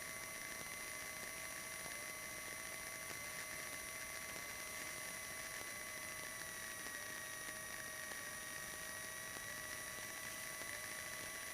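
Steady electrical hiss and hum on a light aircraft's intercom audio feed, with a faint high whine that dips slightly in pitch about seven seconds in.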